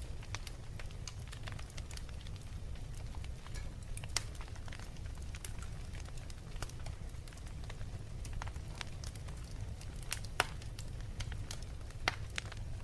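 Wood fire crackling in a fireplace: scattered sharp pops and snaps over a steady low rumble, with louder pops about four seconds in, near ten seconds, and near the end.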